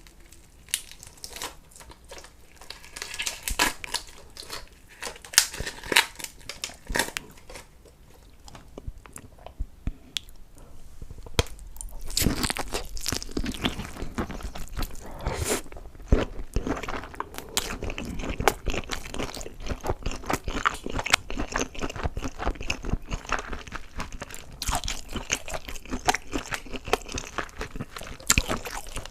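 Crunchy food being bitten and chewed close to the microphone. Scattered crunches for about the first twelve seconds, then dense, continuous crunching.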